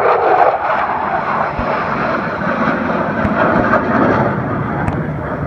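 Jet aircraft flying past, a loud, steady roaring rush of engine noise.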